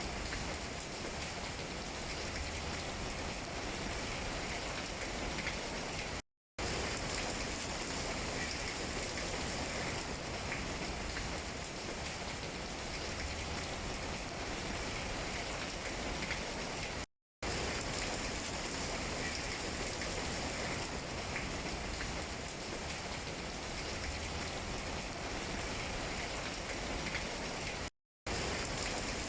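Steady rain falling on tree leaves: an even hiss with scattered taps of individual drops. The sound cuts out completely for a fraction of a second three times.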